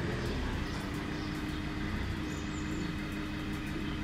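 A newly powered machine's motor running steadily as it moves under its own power for the first time, with a low rumble and a steady hum.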